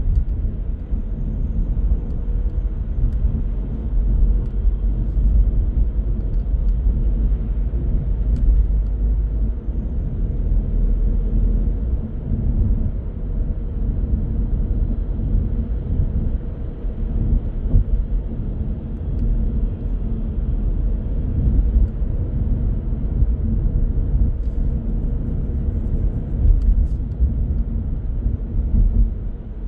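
Car driving along a city road: a steady low rumble of engine and tyre noise.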